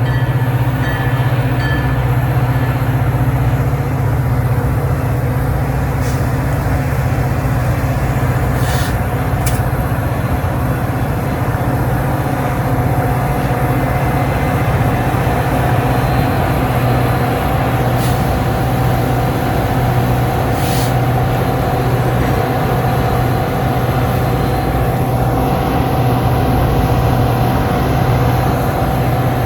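Metra commuter train running, a loud steady drone with a strong low hum and no rise or fall in level. A steady higher tone comes in about halfway through.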